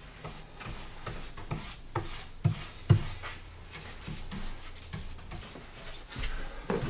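Paintbrush rubbing over wood as primer is brushed on, with irregular knocks and a couple of louder thumps about two and a half and three seconds in.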